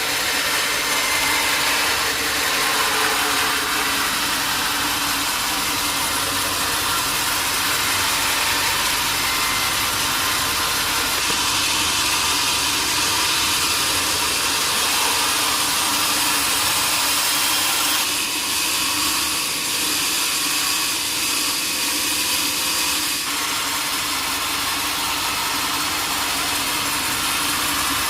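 Sawmill machinery running steadily with a dense, even noise, the sound shifting slightly about eighteen seconds in.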